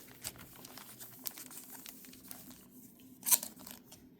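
Foil Pokémon booster pack wrappers crinkling as the packs are handled and sorted, a run of faint small crackles with one louder crackle about three seconds in.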